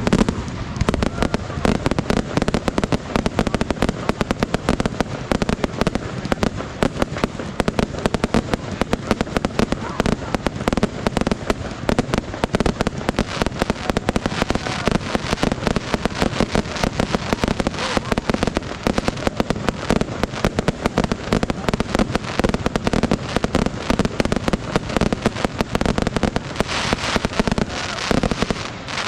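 Fireworks display: a dense, continuous barrage of rapid bangs and crackles, with no let-up.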